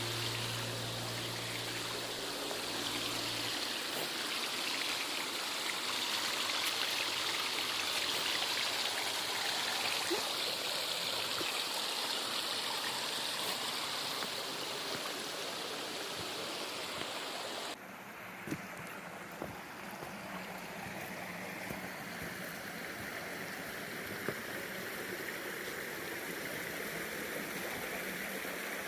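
Running water of a stream or waterfall, a steady even rush. About two-thirds of the way through it drops suddenly to a quieter, softer rush.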